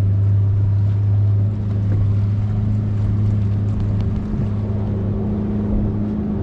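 A motorboat engine running steadily with a low, even hum.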